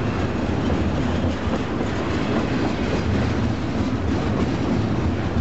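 Double-stack intermodal container train's well cars rolling past close by: a steady, even rumble of steel wheels on the rail.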